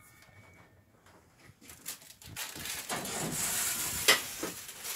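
Scraping and rubbing as the baked loaves are pulled out of the wood-fired oven. It starts about two seconds in, grows louder, and has a sharp knock about four seconds in.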